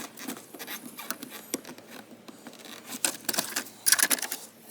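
Scattered plastic clicks and light rattles of an engine's ignition-coil wiring harness and its connectors being unclipped and moved by hand, busiest with a flurry of quick clicks about three and a half to four seconds in.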